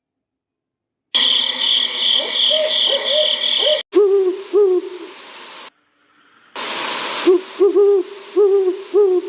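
Owls hooting: short hoots that rise and fall, in quick runs of two or three, heard in several separate clips after about a second of silence. The first clip has a steady high buzzing under the hoots.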